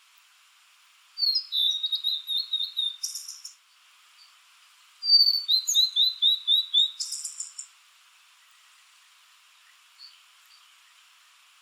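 Blue-and-white flycatcher singing: two clear whistled phrases a couple of seconds apart, each a run of quick down-slurred notes that ends in a short harsh note.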